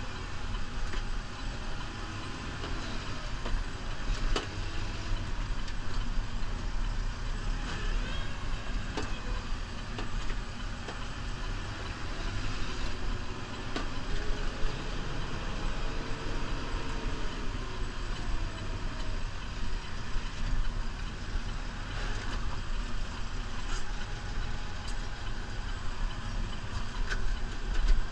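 New Holland Powerstar 75 tractor's diesel engine running steadily, with a few sharp knocks now and then.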